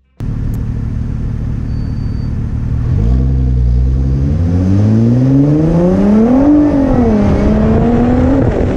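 Car engine accelerating hard over road and wind rumble. About three seconds in, its pitch starts climbing steadily, dips briefly a little after halfway, then climbs again.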